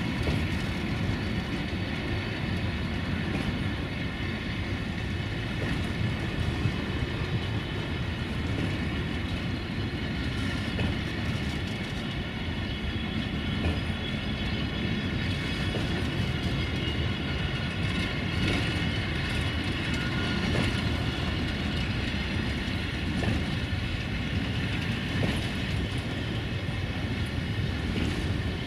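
Freight train's covered wagons rolling steadily past: wheels on the rails rumbling, with scattered clicks over the rail joints and a faint high whine.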